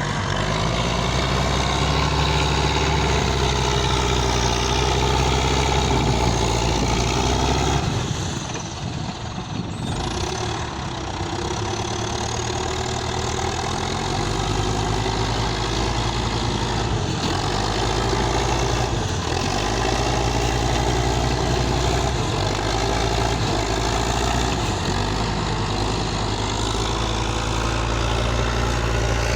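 Cat 518 skidder's diesel engine running, with its note dropping and changing for a couple of seconds about eight seconds in, then steady again.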